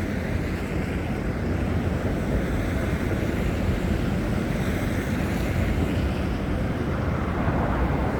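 Steady wind rumbling on a phone microphone, an even noise that stays at one level throughout.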